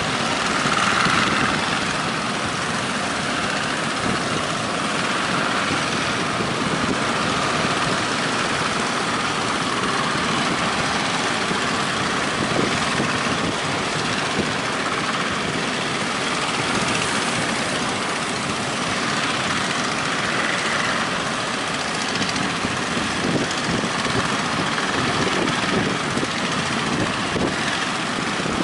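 Steady roar of breaking waves and strong wind, without a break.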